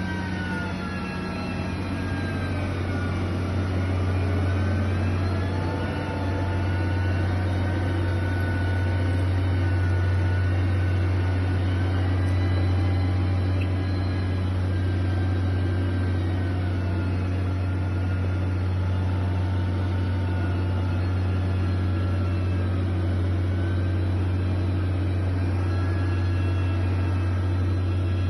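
Heavy construction machine's engine running steadily: a continuous low drone with a higher whine that slowly wavers up and down in pitch.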